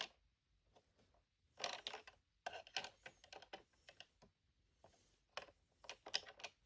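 Light clicks and taps of small plastic Mini Brands miniatures being set onto the shelves of a toy refrigerator, in a few short clusters.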